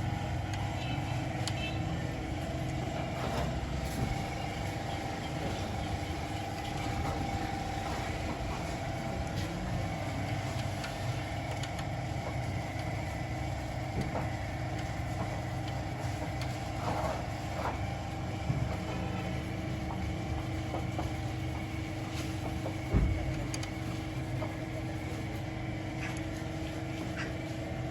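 A steady engine hum, like a vehicle idling, with faint scattered metal clicks and one sharper knock about 23 seconds in.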